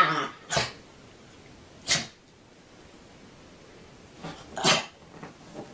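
A pet animal making three short, sharp, breathy bursts of noise: one near the start, one about a second later and a cluster near the end, with quiet between.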